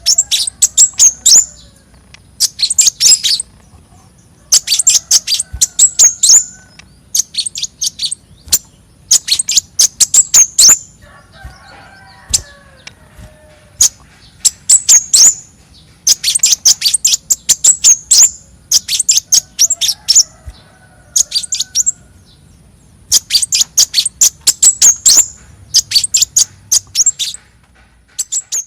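A konin songbird singing. It repeats phrases of fast, high-pitched chirps, each a second or two long, with short pauses between them. Fainter, lower chirping from other birds sits in the background.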